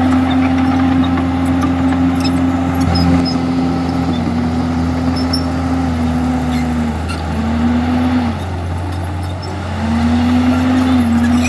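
Komatsu bulldozer's diesel engine working under load, its steady note sagging and recovering several times and easing off briefly near the end before building again.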